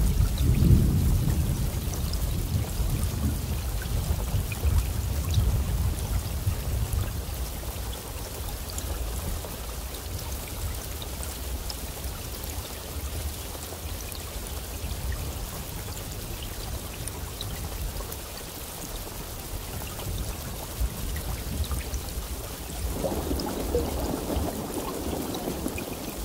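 Steady rain falling with scattered drop ticks, over a low rumble of thunder that is loudest at the start and fades over the first several seconds. A swell of rushing noise comes near the end.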